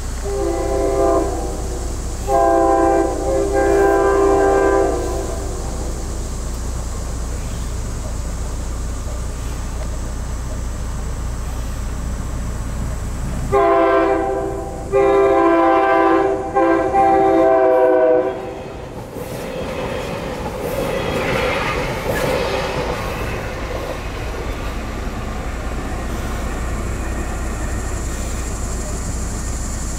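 SEPTA Regional Rail electric multiple-unit train sounding its horn on the approach to a grade crossing: two blasts in the first few seconds, then a second series of blasts from about 13 to 18 seconds in. The train then passes through the crossing with wheel and rail noise.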